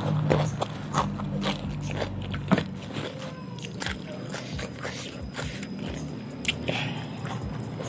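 Close-miked chewing of a mouthful of raw cucumber: irregular crisp crunches and wet mouth clicks.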